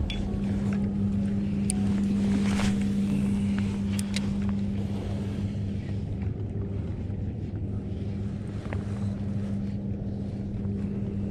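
A boat motor running at a steady pitch, a constant hum, with wind on the microphone and a few light ticks in the first few seconds.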